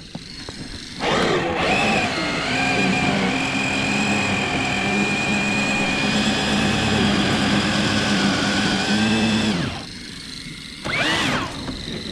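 Electric RC crawler trucks' motors and gear drivetrains whining under throttle while churning through deep snow. The whine holds a fairly steady pitch for most of the time, drops out for about a second near the end, then comes back rising.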